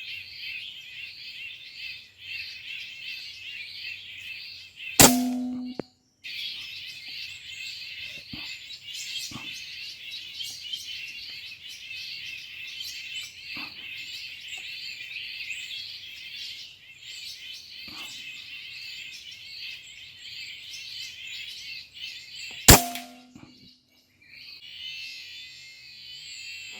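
A flock of birds chirping continuously and densely. Two sharp cracks come about 5 s and about 23 s in, and after each the chirping briefly stops.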